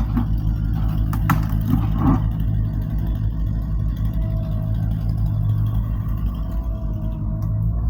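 An engine idling steadily with a low hum, with a few sharp clattering knocks in the first two seconds.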